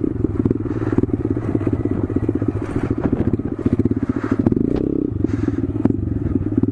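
Honda Grom's 125cc single-cylinder engine running through a baffled aftermarket exhaust, with a short blip of revs rising and falling past the middle, and a few light clicks and scrapes.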